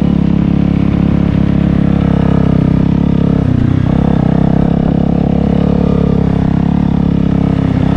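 Honda CBR250 motorcycle engine running steadily while riding, with a brief dip in the engine note about three and a half seconds in.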